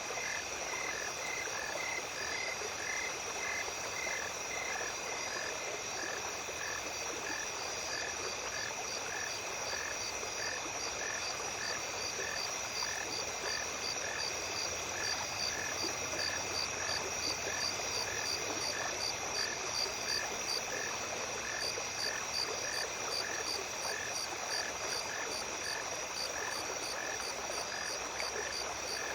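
Small stream running at night, with insects singing: steady high trills over the water, and a rhythmic chirping call repeating about twice a second throughout.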